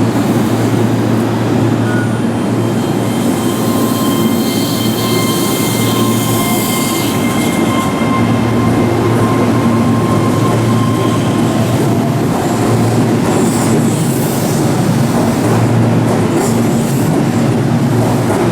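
Keihan 3000 series electric train pulling out and running past, with a steady rumble of wheels on rail. A thin high-pitched whine sounds for several seconds in the first half.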